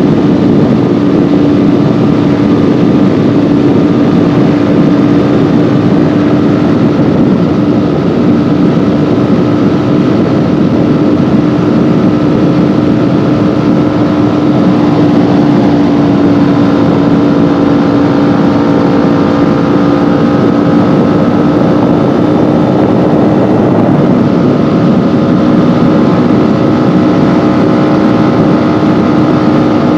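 Kawasaki Ninja 400's 399 cc parallel-twin engine running at a nearly constant rpm while riding, its valves freshly adjusted. One steady engine tone holds over a dense rush of noise throughout.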